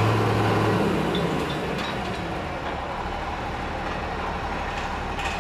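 Heavy truck engine, a low hum that fades out about a second in, over a steady rumble of vehicle and site noise.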